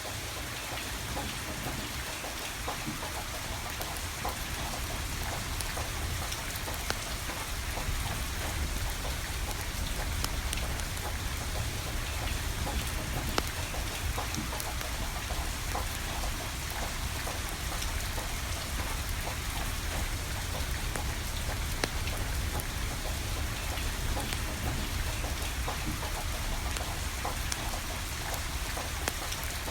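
Steady rain falling, with a low rumble underneath and sharp crackles from a wood fire scattered through it.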